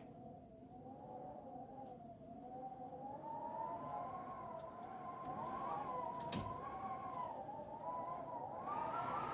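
A wavering, wailing tone that slowly rises in pitch and grows louder, over a steady low rumble of noise. One sharp crack comes about six seconds in.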